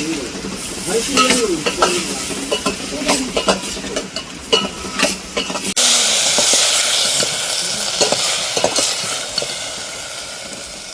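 Food frying in a pan: a steady sizzle with a utensil repeatedly scraping and knocking against the pan, then after a sudden cut about six seconds in, a denser sizzle that slowly dies down.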